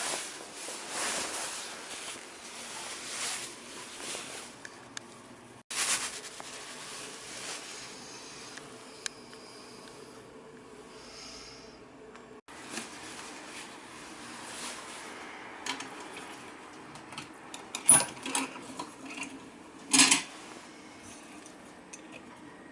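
Metal parts of a tabletop grinding mill being handled, with light clinks and clicks and two sharp knocks near the end. A rushing noise fades out over the first few seconds.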